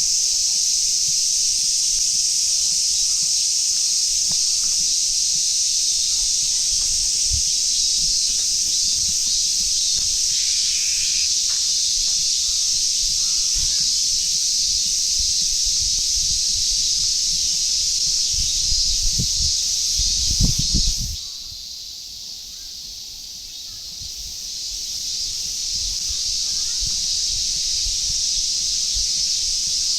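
Cicadas calling in a steady, high-pitched summer chorus. It cuts off abruptly about two-thirds of the way through, then gradually builds back up. A few low thumps come just before the cut-off.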